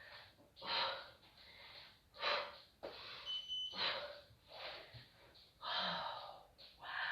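A person exercising breathes out hard, one forceful exhale about every one and a half seconds. A brief high beep sounds about halfway through.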